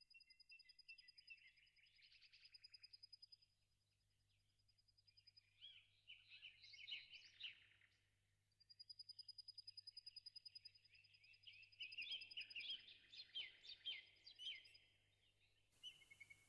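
Faint birdsong from several birds chirping, with a rapid high trill that comes twice, near the start and again in the middle.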